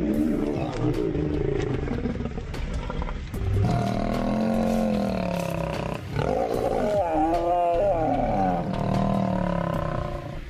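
Male lions snarling and roaring in a fight: long, rough calls that rise and fall in pitch, with brief pauses about three and six seconds in.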